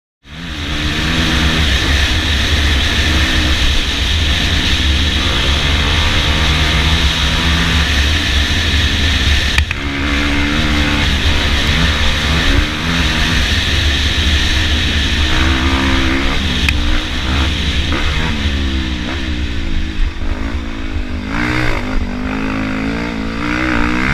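Dual-sport motorcycle engine running under way, its pitch rising and falling several times as the throttle is worked and gears change.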